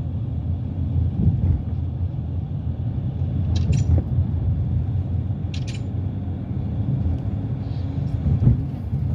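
Steady low rumble of a car on the move, with two brief high-pitched sounds, one a little past three and a half seconds in and one about five and a half seconds in.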